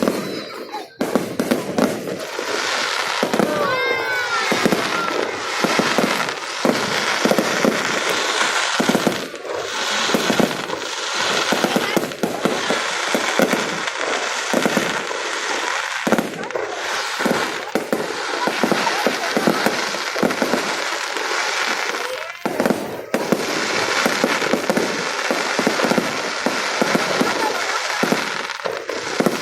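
Fireworks crackling and popping in a dense, continuous stream, with whistling glides a few seconds in and short lulls near the start and about two-thirds of the way through.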